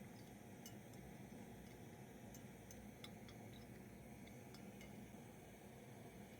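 Near silence: a low steady background hum with scattered faint ticks and clicks.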